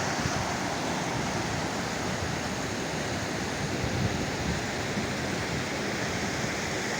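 Water stream rushing steadily, an even wash of flowing water noise.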